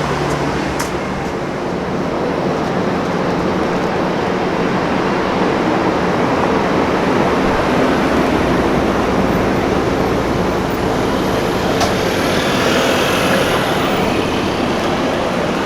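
A car engine running steadily amid street traffic noise, swelling a little through the middle and easing near the end.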